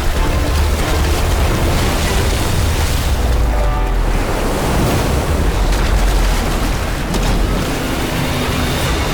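Storm-at-sea sound effects of wind and crashing waves, dense and steady, with a deep rumble and dramatic music underneath.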